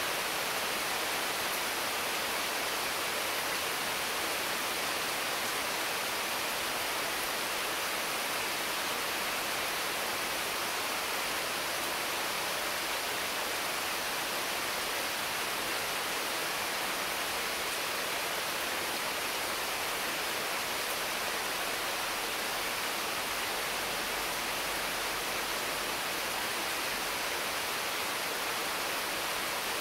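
Heavy rain falling steadily on the foliage of mango, papaya and other trees: an even, unbroken hiss.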